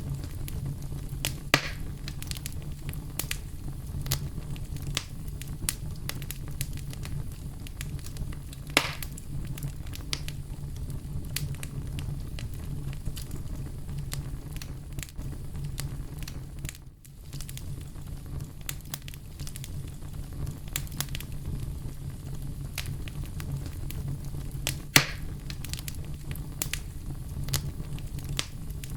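Campfire burning: a steady low rumble of flames with frequent small crackles, and louder wood pops about a second and a half, nine and twenty-five seconds in.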